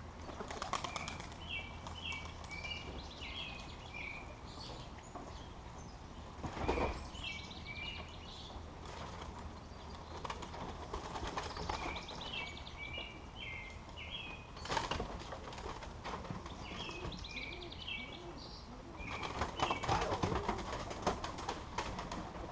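Pigeons' wings flapping in several brief flurries, the loudest about 7 and 15 seconds in and a longer one near the end, while a small bird chirps in repeated short phrases.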